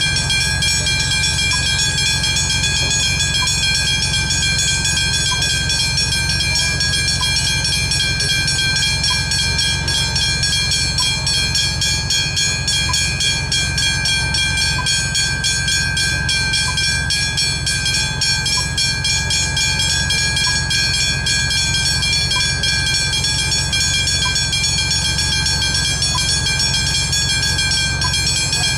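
Railway level crossing bells ringing continuously, a fast, even stroke on a steady high tone, with a low rumble underneath.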